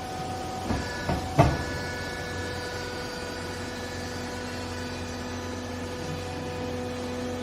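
Hydraulic textile baler running with a steady machine hum. About a second in come three sharp clanks, the last the loudest, and the hum's pitch shifts after them.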